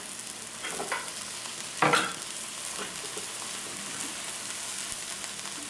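Quinoa risotto sizzling in a stainless steel pan on the heat, being stirred with a metal spoon. A steady frying hiss, with two brief louder noises about one and two seconds in, the second the louder.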